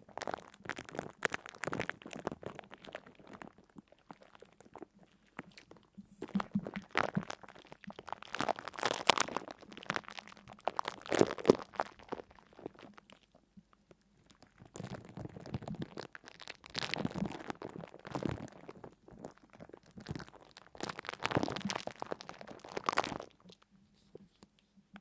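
Crisp crunching and crackling in four bursts of a few seconds each, separated by short pauses.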